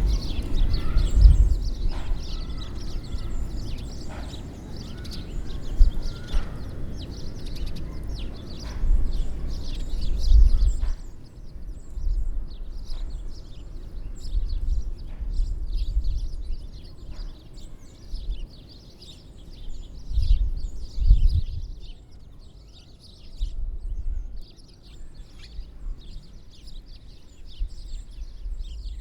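Many small birds chirping at once around winter bird feeders, a dense run of short high calls, over an uneven low rumble.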